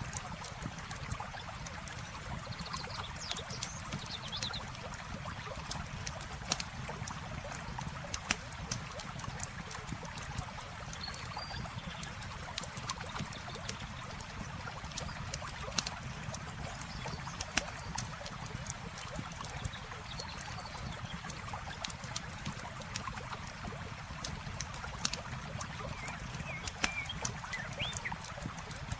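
Campfire crackling with frequent sharp pops, over the steady sound of running river water. A few brief high chirps come through now and then.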